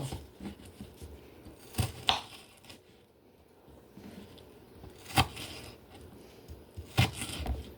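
Kitchen knife slicing red onion on a cutting board, with about five sharp, irregularly spaced knocks of the blade against the board.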